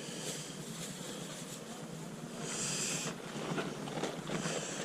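Low outdoor background noise with faint distant voices, and a short hissing rustle about two and a half seconds in.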